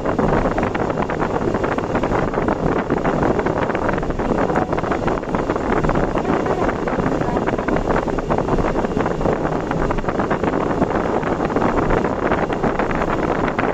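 Steady rushing wind and road noise from a vehicle travelling at speed on an expressway, with wind buffeting the microphone and no distinct engine note or separate events.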